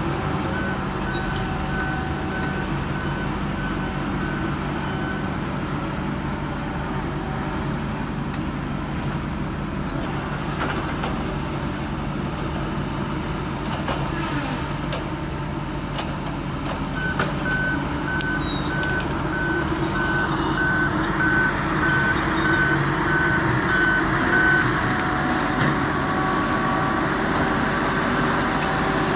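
Diesel heavy equipment running, with a backup alarm sounding steady, evenly spaced beeps in two spells while the machine reverses. The engine grows louder after about twenty seconds.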